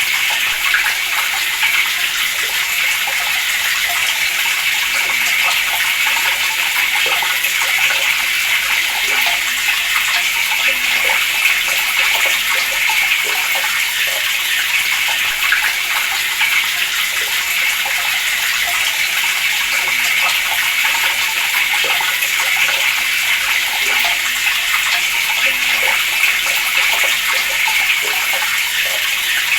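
Water running steadily from a tap, splashing without pause.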